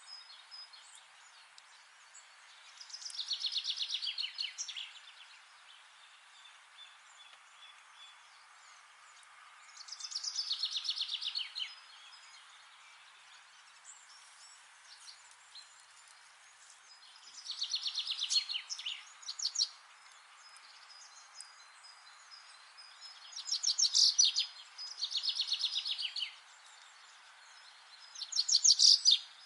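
A songbird singing a repeated song: phrases of rapid, high notes, each one to two seconds long and falling slightly in pitch, coming every six or seven seconds over a faint steady hiss.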